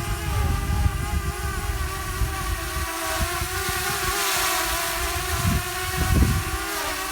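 Hubsan Zino Mini Pro quadcopter's propellers whining steadily in several tones whose pitch wavers slightly as it flies in high wind. Gusts of wind buffet the microphone in uneven low rumbles.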